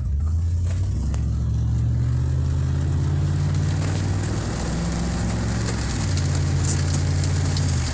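Car engine running with a low, steady hum that shifts in pitch a few times, starting abruptly.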